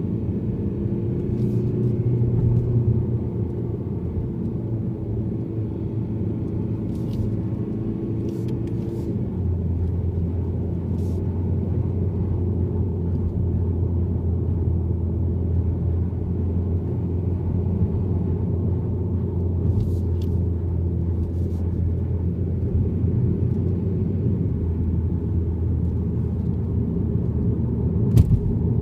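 Mazda3 being driven: a steady low drone of engine and road noise, its pitch changing about nine seconds in, with a few short sharp clicks, the loudest near the end.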